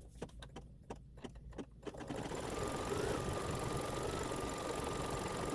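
A few sharp clicks, then about two seconds in a machine embroidery machine starts and runs steadily, stitching, with a thin steady whine over its running noise.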